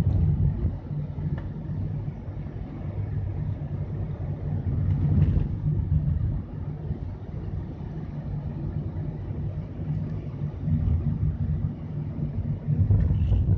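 Low road rumble of vehicle traffic on a highway, swelling a few times, about five seconds in and near the end.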